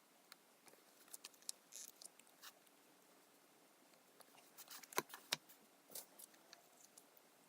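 Faint scattered ticks and short rustles of sticker sheets and planner paper being handled as stickers are peeled and pressed down, with two sharper clicks close together about five seconds in.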